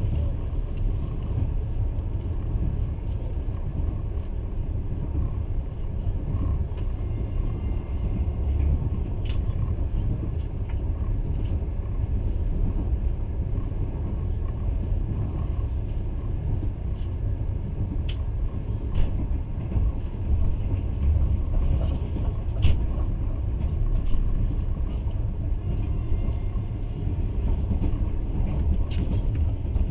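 Moving passenger train heard from inside the carriage: a steady low rumble of wheels on track, with a few sharp clicks and knocks scattered through.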